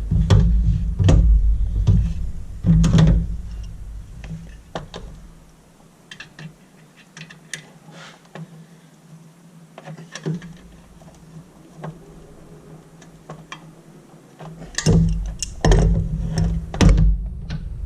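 Scattered knocks and clunks of parts and tools being handled while fitting a coolant expansion tank and its hoses in a car's engine bay, with a heavy low rumble for the first few seconds and again near the end, and a quieter, sparser stretch of light taps in between.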